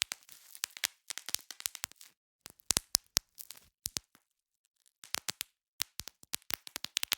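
Plastic bubble wrap being popped by hand: rapid, irregular runs of sharp snapping pops in clusters, with a pause of about a second a little past the middle.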